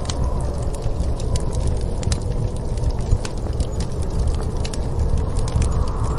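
Wood fire crackling with irregular sharp pops, over a steady low rumble of storm wind.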